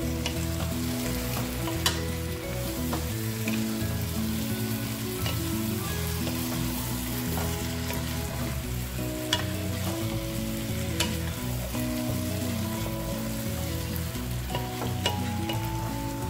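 Squid sizzling in a pot as it is stirred with a wooden spatula, with a few sharp knocks of the spatula against the pot. A background music melody plays underneath.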